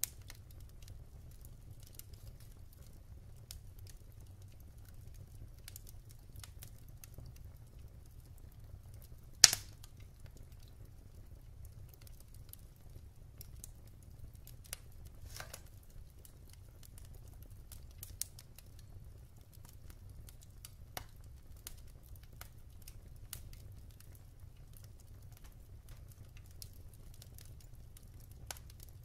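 Wood fire burning in a fireplace: irregular small crackles of the burning logs, with one sharp, much louder pop about a third of the way in and another clear crack about halfway, over a low steady rumble.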